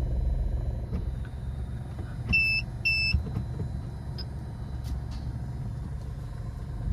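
Car engine idling as a steady low rumble, heard from inside the cabin. A little over two seconds in come two short, high electronic beeps about half a second apart.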